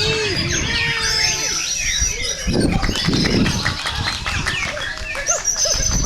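Several white-rumped shamas (murai batu) singing over one another: a dense, continuous tangle of rapid whistles, slurred notes and chattering phrases.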